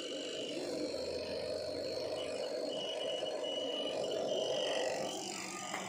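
Spin dryer of a semi-automatic washing machine running steadily and smoothly, its motor seal freshly oiled with sewing-machine oil to cure a loud noise from the dried-out seal. The spin timer knob's clockwork makes a light whirring alongside.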